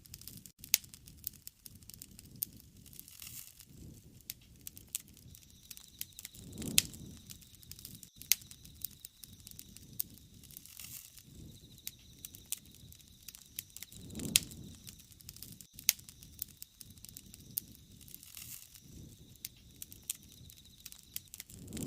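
Wood fire (bonfire) crackling, with irregular sharp pops and snaps. A low rushing swell of the flames comes and goes about every seven seconds, three times.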